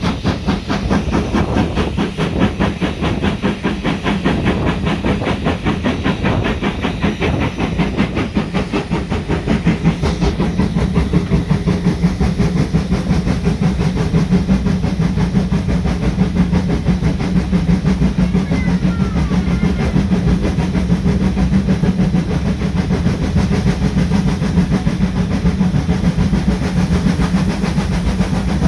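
A train running, with a fast, regular beat over a steady low hum, getting a little louder after about ten seconds.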